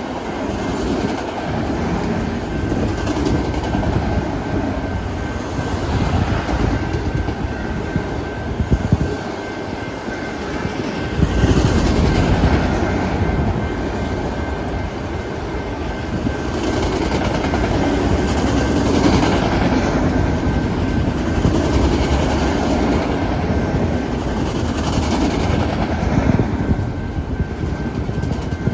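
Freight train cars rolling past on the rails in a steady, continuous rumble that gets fuller and louder about eleven seconds in.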